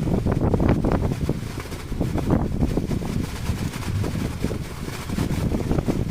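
Strong wind buffeting the microphone in gusts, with the wash of the sea around a small boat beneath it.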